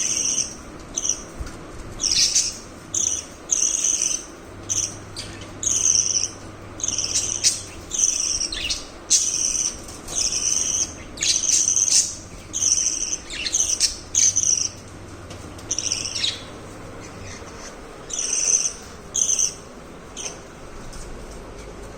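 Budgerigars chirping and chattering in a quick run of short, high calls that falls quiet near the end.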